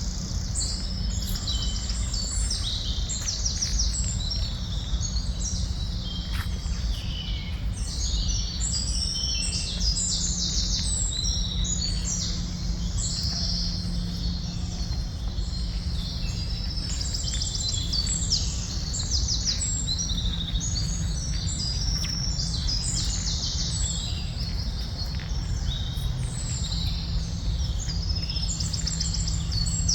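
A chorus of many small birds chirping and twittering without pause, the calls overlapping, over a steady low background rumble.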